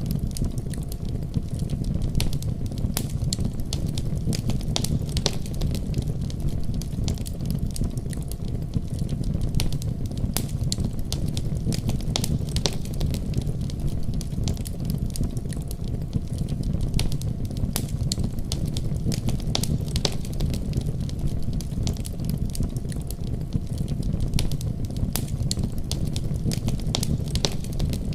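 Fireplace fire crackling, with frequent sharp, irregular pops over a steady low rumble of the flames.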